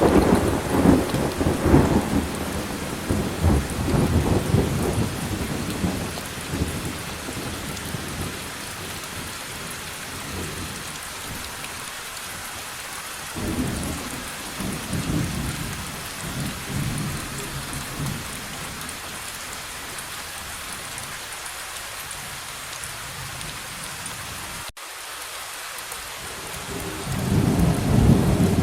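Rainstorm: steady rain with rolling thunder. A long rumble fades away over the first several seconds, another rolls through about halfway, and a third builds near the end.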